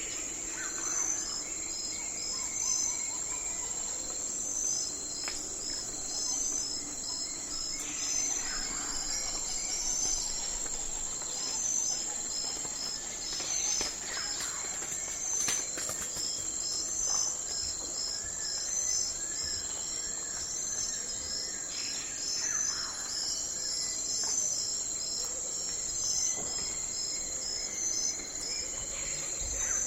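Night forest ambience: a steady high-pitched insect drone under evenly repeating cricket chirps, with a few short calls sweeping down in pitch now and then.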